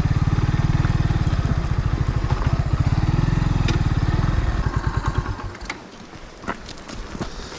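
Kawasaki W175's single-cylinder engine idling with an even, low beat, then slowing and dying away about five seconds in as it is switched off; a few light clicks follow.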